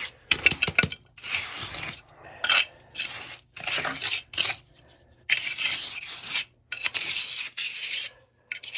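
Small trowel scraping and packing wet concrete into a floor patch in irregular strokes, with a few sharp metal clicks in the first second.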